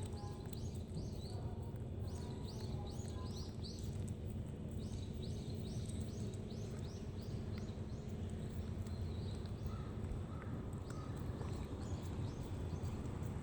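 Small birds chirping in quick runs of short, high, falling notes over a steady low rumble, with a few faint clicks.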